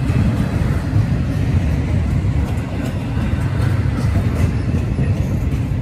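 BNSF double-stack intermodal train's well cars rolling past slowly, about 15 mph, a steady low rumble of steel wheels on rail.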